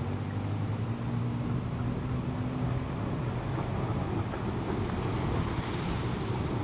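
Wind buffeting the microphone over a dense low rumble. A low steady hum fades out in the first three seconds, and a hissing gust swells about five to six seconds in.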